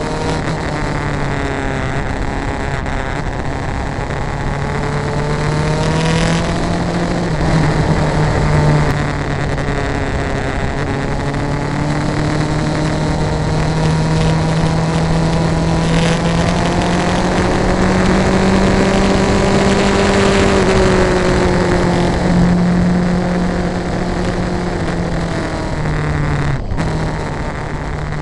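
Vehicle engine running under way at a fairly steady speed, its pitch drifting slowly up and down over several seconds, with a steady rush of wind or road noise.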